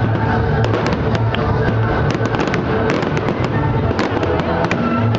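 Fireworks display: rapid, irregular cracks and pops, several a second, over steady music.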